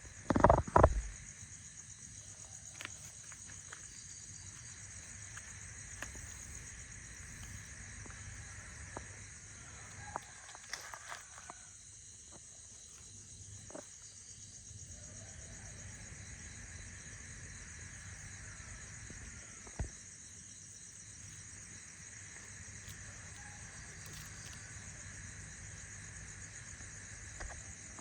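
Steady high-pitched insect chorus, like crickets trilling, with a loud knock about half a second in and a few faint clicks later.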